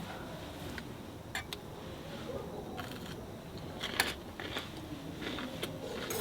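Eating a fried-shrimp rice bowl: a handful of scattered, sharp clicks and crunches over a low steady background, the sharpest about four seconds in.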